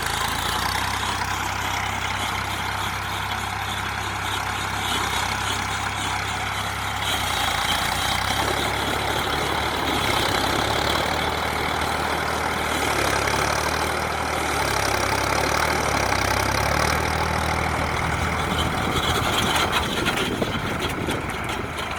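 Tractor engine running steadily, its note shifting a couple of times, about a third of the way in and again later.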